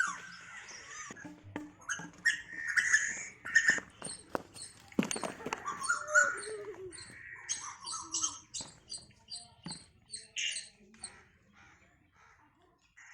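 Birds calling: a jumble of short chirps and squawks, then a run of quick, sharp high calls about three a second, dying away about eleven seconds in.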